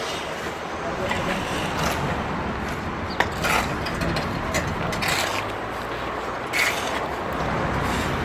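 Steady background noise with scattered short clicks, knocks and scrapes, the sharpest about three seconds in.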